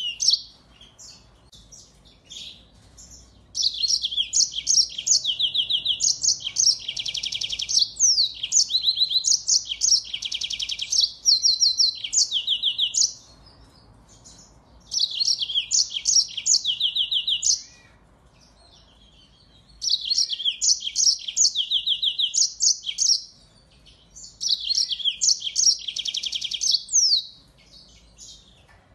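A finch singing in four long bursts of rapid, high trills and twittering phrases, with short pauses between them.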